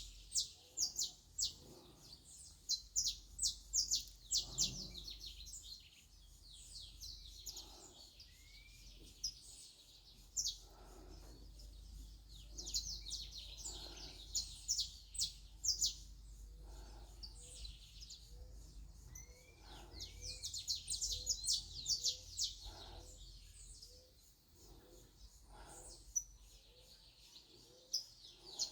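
Small birds chirping in several bouts of rapid, short, high notes, with quieter stretches between the bouts.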